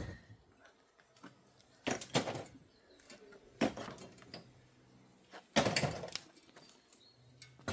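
Three short bursts of clatter and knocks as the UPVC window sill and frame are handled and set in place, the last and loudest a little past halfway, with quiet between them.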